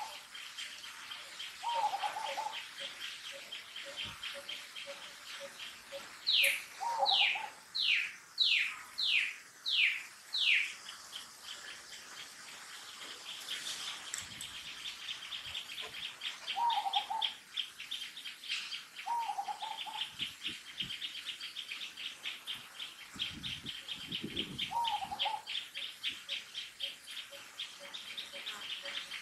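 Wild birds calling: a fast, steady trill with short lower calls every few seconds, and a run of seven quick falling whistles about six seconds in.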